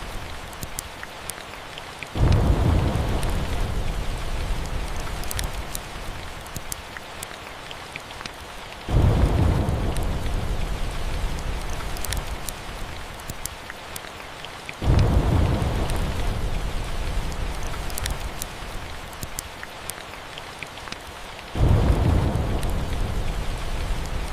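Steady rain with four rolls of thunder. Each starts suddenly about every six to seven seconds and rumbles low, then fades slowly into the rain.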